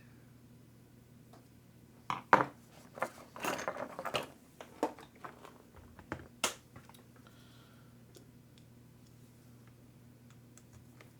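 Small RC truck parts being picked up, knocked together and set down on a bench: a run of clicks and clatter in the first half, then only a faint low steady hum.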